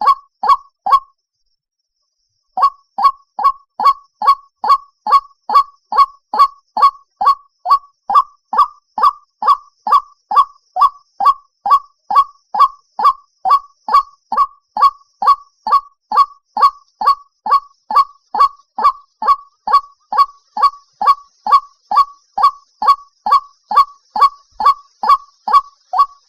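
White-breasted waterhen calling, played as a trapping lure: a monotonous run of short, evenly repeated notes, about two a second. The notes break off for about a second and a half shortly after the start, then go on without a pause.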